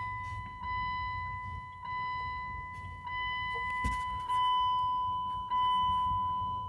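Dashboard warning chime of a 1999 Dodge Durango ringing repeatedly with the key on and the engine not yet started: about five pulses, roughly one a second, each fading away.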